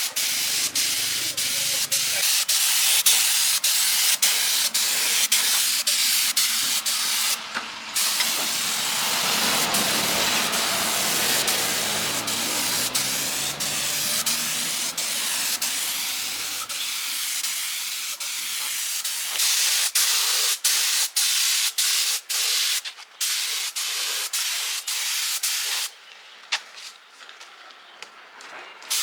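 High-pressure spray hissing steadily, cutting out briefly a couple of times and dropping away near the end.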